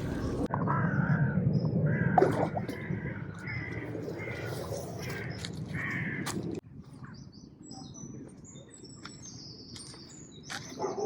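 Outdoor birdsong: a bird calls again and again, about eight calls, over a low rumble. Then an abrupt cut, after which fainter high-pitched chirps of other birds are heard.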